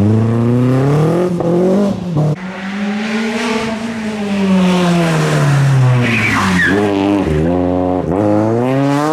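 Rally car engine revving hard through the gears, its pitch climbing and dropping sharply at each gear change several times.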